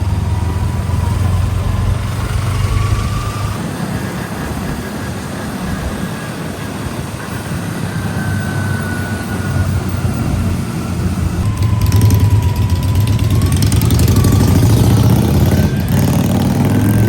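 Motorcycle engine running while riding in traffic, a steady low drone with a faint whine that rises and falls in pitch. About two-thirds of the way in, a broad rushing noise grows louder over it.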